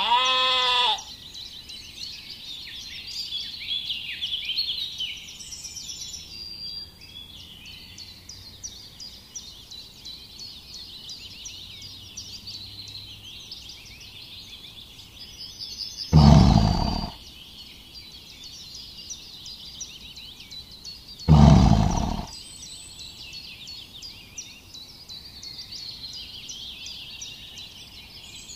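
Sheep bleating: a short, high bleat right at the start, then two louder, deeper bleats of about a second each, roughly five seconds apart, in the middle of the stretch. Small birds sing and chirp throughout.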